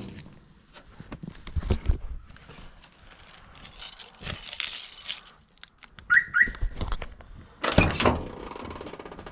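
Scattered knocks and thumps with a jingle of keys as someone handles the truck's door and keys, ending in a loud thump about three-quarters of the way through.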